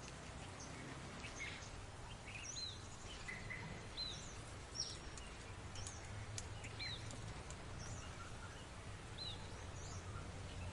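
Faint birdsong: scattered short, high chirps, some repeated a second or two apart, over a steady low background hum and hiss of outdoor ambience.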